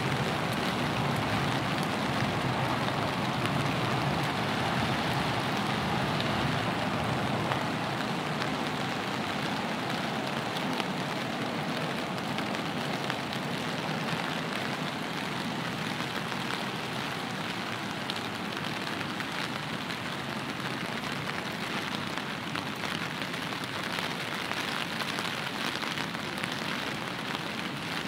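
Steady rainfall with the patter of many individual drops over a constant wash of rain noise, easing a little after the first few seconds.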